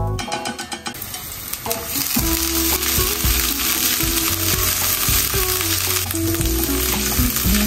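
Food sizzling as it fries in a hot pan, starting about a second in and going on steadily, with quiet music underneath.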